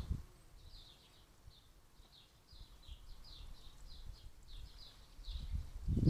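Small songbird chirping: a run of short, high notes, each falling in pitch, repeated two or three times a second. A low rumble of wind on the microphone is heard at the start and again near the end.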